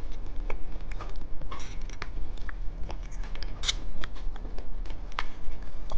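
Candy packaging being handled: irregular small clicks and crinkles of plastic wrappers and pieces.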